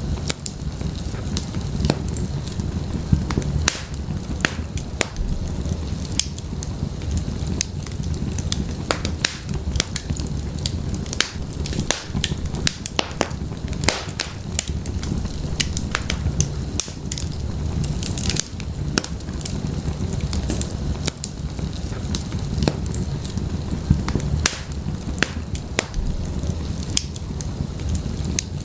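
Firewood burning in an open fireplace, crackling with frequent irregular sharp pops and snaps over a steady low rumble.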